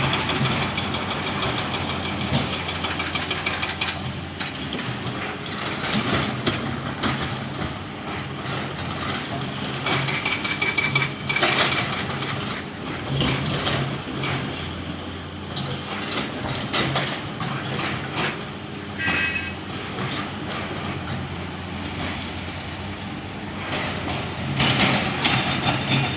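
Heavy diesel engines of a Komatsu PC650 excavator and dump trucks running at a worksite, the low hum swelling and easing as the machine works, with scattered louder noisy bursts.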